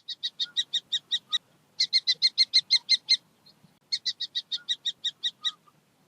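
Kestrel calling: three rapid series of high, shrill "kee-kee-kee" notes, about eight notes a second, with short pauses between the series.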